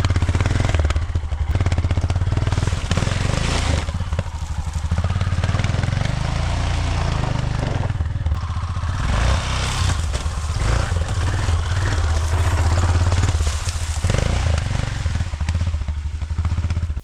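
Dirt bike engine running and pulling as the bike is ridden over rough off-road ground, the throttle rising and falling; it cuts off suddenly near the end.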